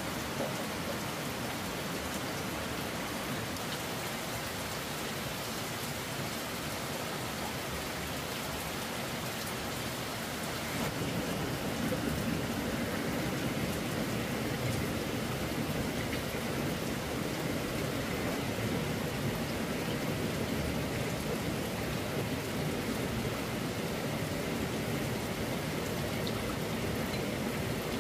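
Steady heavy rain, growing louder about eleven seconds in.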